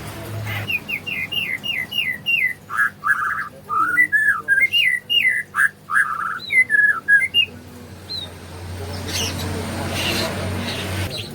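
A white-rumped shama (murai batu) singing loud, varied whistled phrases: a quick run of repeated notes, then looping, rising and falling whistles, for about seven seconds. After that a low hum with a rushing noise builds and cuts off suddenly near the end.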